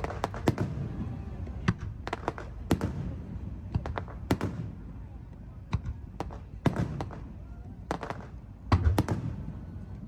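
Aerial fireworks shells bursting: more than a dozen sharp bangs at uneven intervals, each with an echoing tail, and a quick cluster of them near the end.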